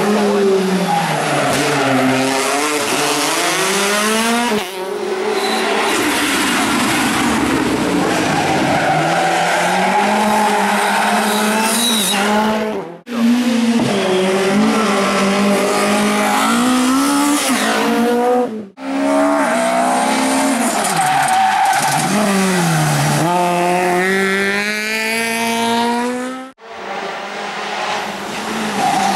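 Rally cars driven flat out past the roadside, engines revving hard, the pitch climbing and dropping sharply with gear changes and braking. Several separate passes, each ending in an abrupt cut.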